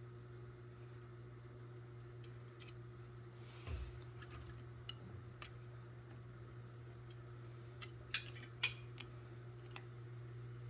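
Scattered small metallic clicks and taps of a sprocket and hand tools being handled while the sprocket is fixed in place on the locomotive jackshaft, with a cluster of sharper clicks near the end, over a steady low hum.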